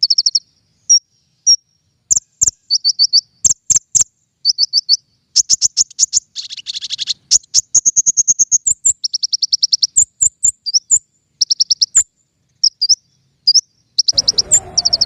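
Konin (kolibri ninja) sunbird song used as masteran and lure audio: bursts of rapid high chirps and quick trills repeated phrase after phrase, with sharp clicks between some phrases. A faint hiss of background noise comes in near the end.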